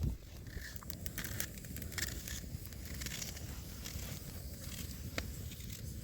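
Irregular crunching steps through snow, with a low rumble underneath.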